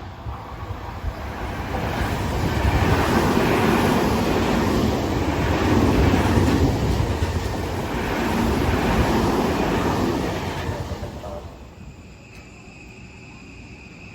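Seibu Railway electric train running past at a level crossing: the rumble and clatter of wheels on rail builds over about two seconds, holds, then dies away about twelve seconds in.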